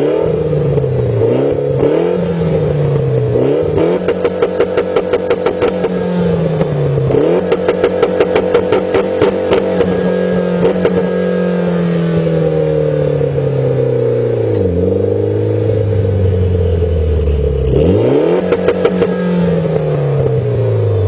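Mitsubishi Lancer Evolution X's turbocharged 2.0-litre four-cylinder, heard through a CNT dual N1 exhaust, revved up and let fall several times. There are short blips first, then a longer held rev that dies away slowly, then another blip near the end. Twice, about four and eight seconds in, the note breaks into a rapid, even stutter.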